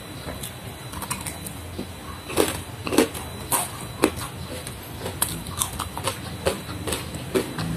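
Close-miked eating sounds of a person chewing crunchy food: irregular sharp crunches and wet mouth clicks, a few a second, loudest about two to four seconds in.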